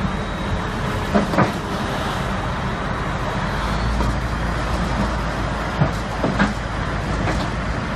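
Heavy vehicle engine running steadily with a low rumble, broken by a few short sharp knocks, two about a second in and two or three around six seconds in.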